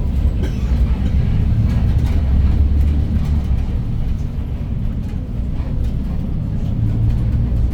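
Cabin sound of a 2015 Hyundai New Super Aerocity city bus with its 290 PS CNG engine running, a steady low drone that swells slightly twice.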